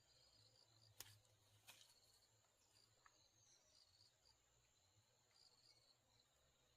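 Near silence: faint insects chirring in short repeated pulses over a steady high hum, with two faint clicks about a second in.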